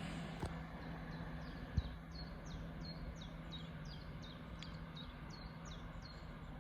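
A small bird singing a quick run of about a dozen high, falling notes, roughly three a second, over a low steady hum and faint background rumble.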